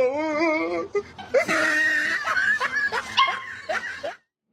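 An animal vocalising in a long call whose pitch wavers up and down, then a noisier stretch of vocalising mixed with laughter, cut off abruptly about four seconds in.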